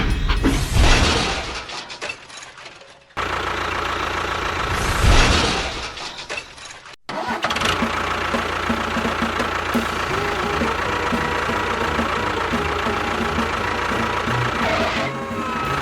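An engine starting in two short surges, each cut off abruptly, then running steadily.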